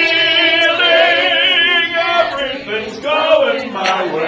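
Voices singing a song in long held notes with a wavering pitch, pausing briefly about halfway through before the next phrase.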